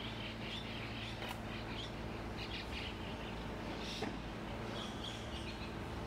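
Birds chirping: a run of short, quick chirps over the first half, then a brief burst again near the end, over a steady low rumble of city background.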